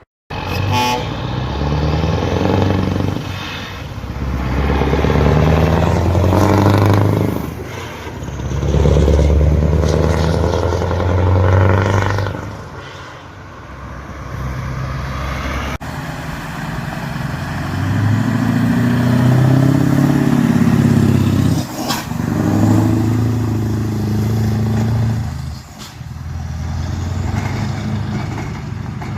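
Scania V8 truck engines with open exhaust pipes, revving up and dropping back in repeated swells, loud. The sound cuts to another truck about halfway through.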